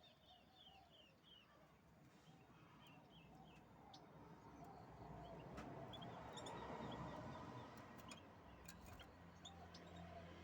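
Faint canary song: short runs of quick, falling chirp notes, with a few sharp clicks and a low background hiss that swells in the middle.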